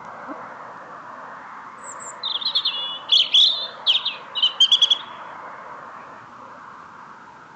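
A small songbird singing a phrase of quick, high chirps and trills, beginning about two seconds in and ending around five seconds, over a steady background hiss.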